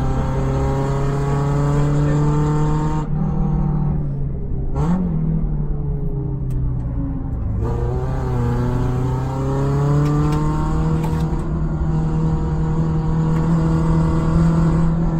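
Peugeot 106 Sport's 1.4-litre eight-valve four-cylinder engine under load, heard from inside the cabin. The revs climb, drop about three seconds in, give a quick rise-and-fall a second or two later, then climb again from about eight seconds in and hold high.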